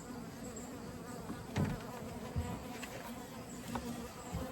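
Honeybees buzzing steadily around an open hive, with a few short knocks and scrapes about one and a half, two and a half and four and a half seconds in.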